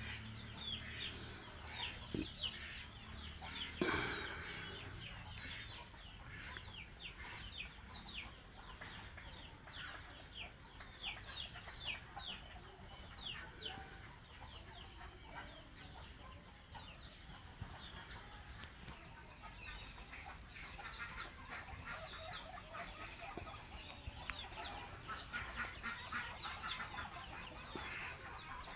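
Backyard chickens clucking, with a dense chorus of short, high, falling peeps and a sharp knock about four seconds in.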